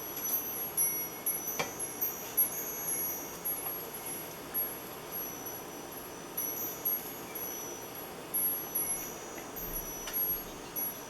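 Wind chimes ringing in the wind, high tones that come and go and shift in pitch, over a steady hiss.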